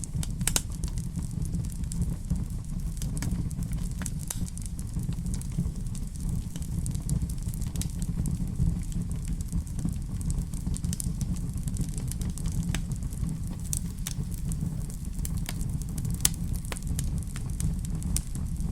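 Fireplace fire crackling, with irregular sharp pops and snaps over a steady low rumble; one louder pop comes about 16 seconds in.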